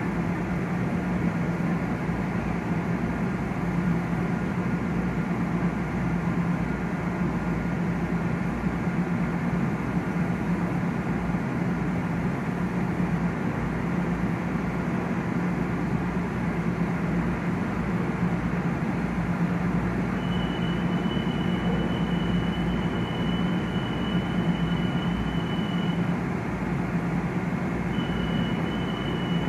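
Metro-North electric multiple-unit commuter train running through the station with a steady rumble and hum. A thin, high steady whine starts about two-thirds of the way through, drops out briefly and comes back near the end.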